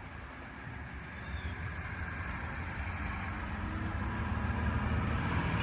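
A vehicle engine running with a low rumble that grows steadily louder.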